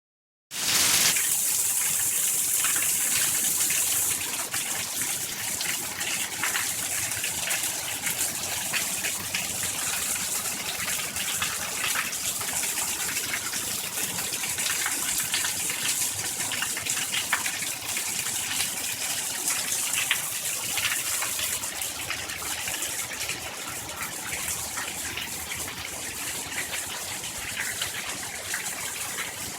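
Steady rain falling: a dense hiss with many small drop ticks. It is louder and brighter for the first few seconds, then settles to an even downpour.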